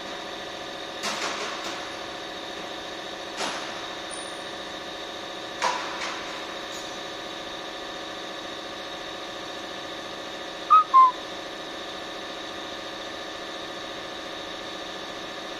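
Car engine idling steadily, with a few sharp clicks or knocks in the first several seconds. About eleven seconds in come two short, loud, high chirps in quick succession, slightly falling in pitch.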